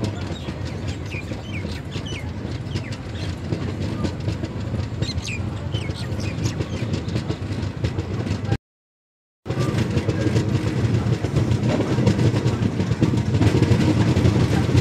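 Passenger express train running, heard from the open doorway of a coach: a steady rumble with fast clatter of the wheels on the rails as it pulls out of the station. The sound cuts out completely for about a second just past the middle, and the running is louder after that.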